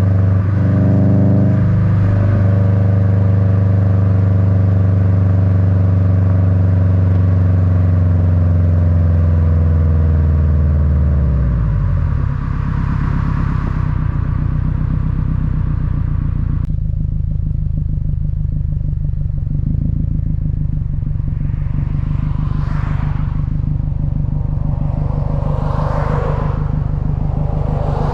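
Subaru WRX's EJ255 flat-four running through an Invidia N1 catback exhaust, heard at the rear bumper: a steady drone with a brief dip and recovery in pitch about a second in, then the revs falling away over several seconds and settling into a low, even rumble. Near the end, short rushing noises swell and fade a few times over the rumble.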